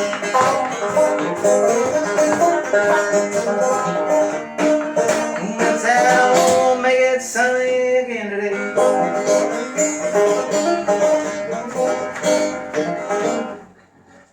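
Fast banjo picking, dense rapid plucked notes, which stops suddenly just before the end.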